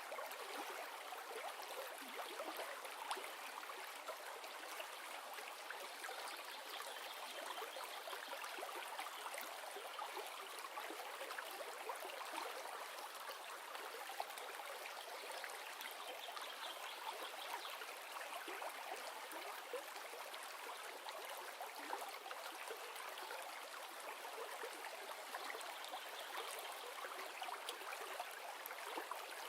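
River water flowing over rocks, a steady even rush with fine trickling detail.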